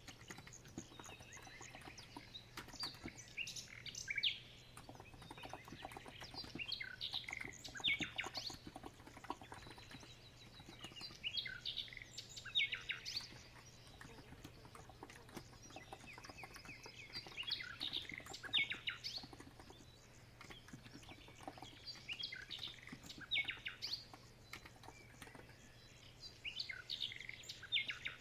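Birdsong: short bursts of chirping phrases repeating every four or five seconds, over soft, continuous typing on a COX Empress electro-capacitive keyboard.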